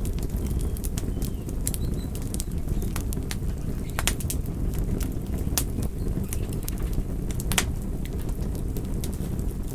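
Wood campfire burning with a steady low rush and constant sharp crackles and pops, a few louder snaps about four, five and a half, and seven and a half seconds in.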